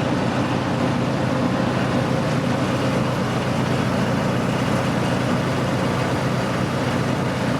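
Ride train running along its track: a steady rumble of engine and wheels that holds level throughout.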